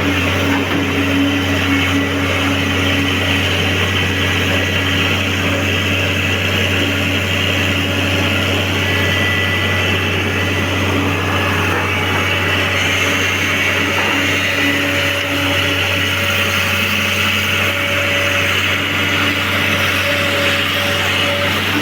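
Heavy-equipment diesel engine running steadily: a loud, even drone with a steady higher tone over it.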